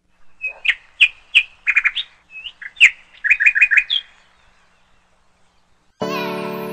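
A bird chirping: a run of sharp, high calls, some in quick trills of three or four notes, for about four seconds. After a short hush, piano music comes in about six seconds in.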